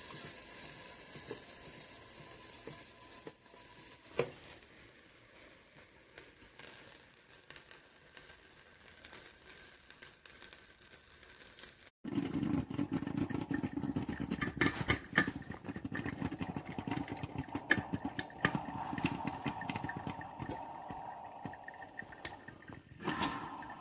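BLACK+DECKER Mill and Brew drip coffee maker running. A steady hiss is heard at first, then after a sudden cut about halfway through, a louder mechanical rumble with many crackling clicks.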